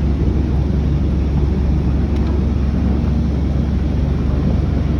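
Steady low rumble of a ferry's engine running, even in level throughout.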